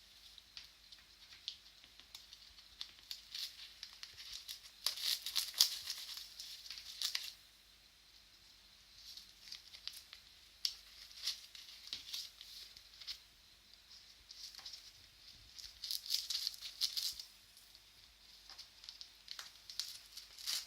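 Newspaper rustling, crinkling and tearing in irregular bursts as an Indian ringneck parrot pulls at it and shreds it with its beak.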